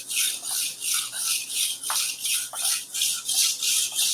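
Chef knife blade scraped rapidly back and forth across the coarse grade of an oiled tri-stone sharpening stone, about three gritty strokes a second.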